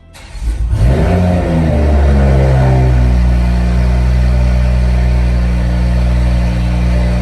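Cold start of a 2021 Toyota Supra A90 through a Tomei dual titanium exhaust: the engine catches, flares loudly in the first second, then its pitch falls over the next couple of seconds and it settles into a steady fast cold idle.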